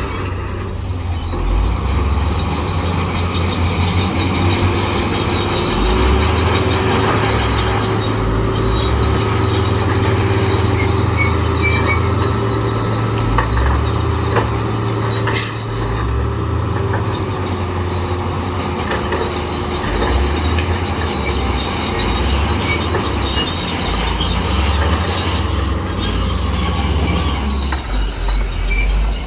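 Bulldozer's diesel engine running steadily while its steel tracks squeal and clank, with a sustained metallic squeal through the middle of the sound and a few sharp knocks.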